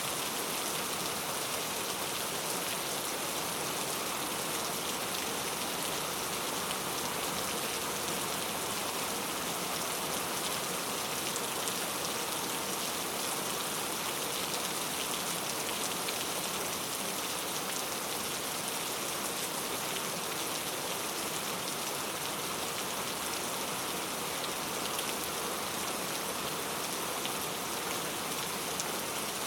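Steady rainfall, an even hiss of rain falling on a surface with fine patter of individual drops, unchanging throughout.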